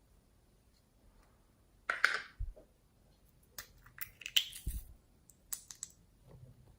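A short crackling burst, then irregular clusters of sharp clicks with two dull low thumps among them.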